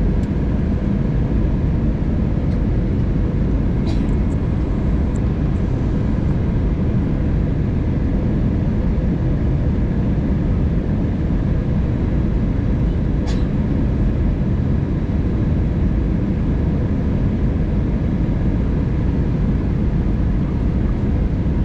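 Airbus A320neo cabin noise in descent: a steady roar of airflow and engine drone, with two faint clicks, about four and thirteen seconds in.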